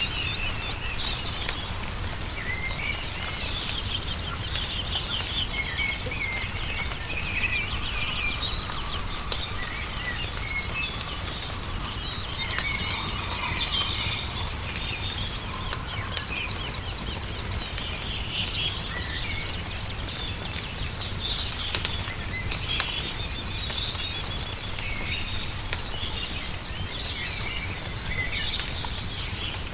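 Small songbirds chirping and twittering over the sharp snaps and pops of a crackling wood fire, with a steady low rumble underneath.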